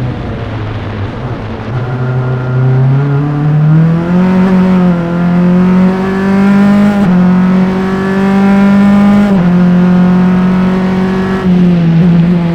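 Onboard sound of a Formula Enterprise single-seater race car's engine, recorded at the engine. It runs lower and quieter for the first couple of seconds, then the revs climb under acceleration, with a step in pitch at each of several gear changes.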